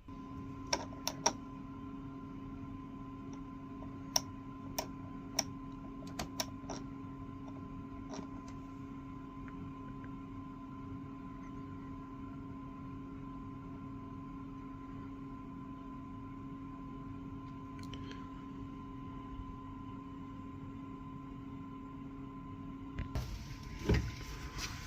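A steady machine hum with a constant low tone, with a few sharp clicks in the first several seconds. Near the end comes a short burst of rustling or handling noise.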